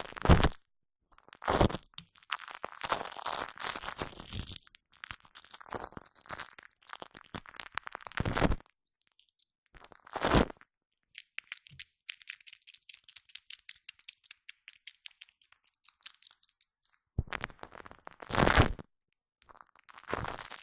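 Shaving foam squished and rubbed on a Blue Yeti microphone: sticky, crackling strokes of uneven length, with a few louder swipes. A stretch of fine, dense crackle comes midway through.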